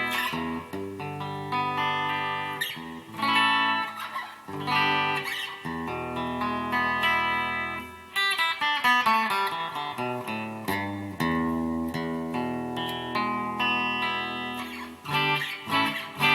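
Donner DST-200 electric guitar on its bridge pickup, played clean through a Vox 30-watt amp driving a Line 6 Spider III's 12-inch speaker, with the gain halfway and a little reverb: strummed chords left ringing, and a short run of single notes about halfway through.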